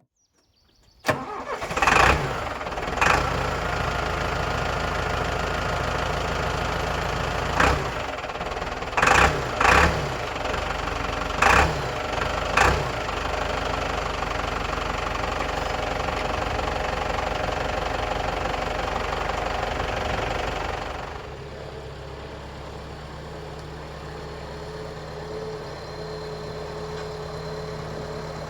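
An engine starts about a second in and runs steadily, with several short loud bursts over the following ten seconds or so. About two-thirds of the way through it drops to a quieter, steady hum.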